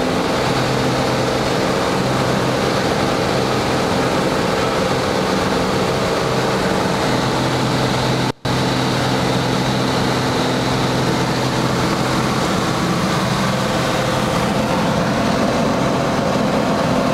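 Cessna light aircraft's piston engine and propeller droning steadily in flight, a constant hum with wind noise. The sound cuts out completely for an instant about eight seconds in.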